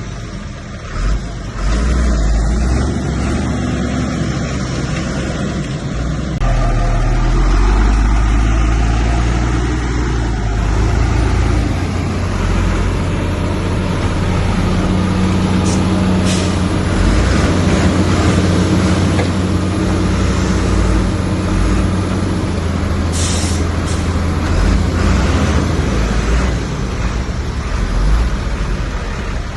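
Diesel engines of heavy earthmoving machinery running hard, the engine note shifting now and then, with a few short hisses in the second half.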